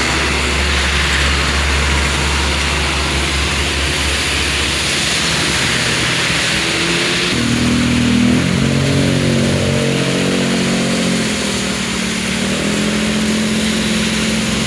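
Heavy rain hissing on a wet road while a heavy diesel vehicle, a bus or truck, labours up a climb. About halfway in, its engine note comes to the fore and steps up and down in pitch as it works through the gears.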